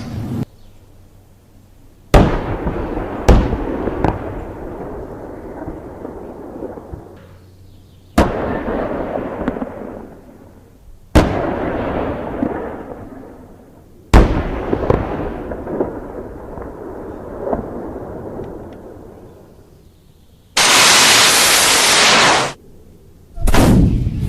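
Five single gunshots, each a sharp crack followed by a long rolling echo that dies away over several seconds. The first two come about a second apart and the rest a few seconds apart. Near the end a dense, continuous blast of noise lasts about two seconds, then a shorter one follows.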